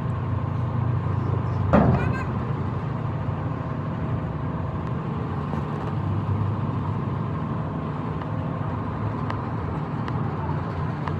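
An engine running steadily with a low drone, and one sharp knock with a brief ring about two seconds in.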